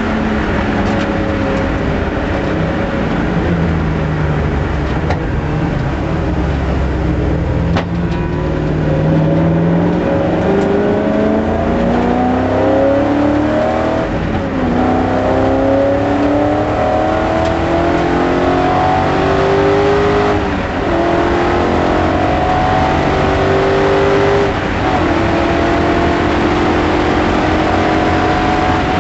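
BMW S62 5-litre V8 in an E30 race car, under hard acceleration on track. The engine note climbs steadily and drops back at each upshift, about four times, with brief dips in level at the shifts.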